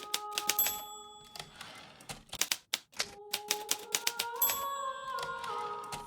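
Hermes Baby portable manual typewriter being typed on: a quick run of sharp key strikes, a lull of about a second and a half with only a few strokes, then steady typing again.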